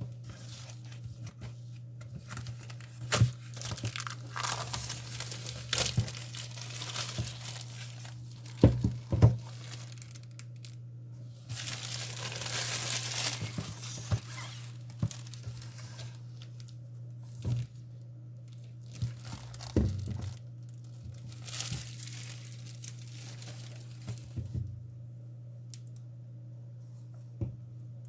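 Crinkling and tearing by hand in three rustling spells, with scattered light knocks and a steady low hum underneath.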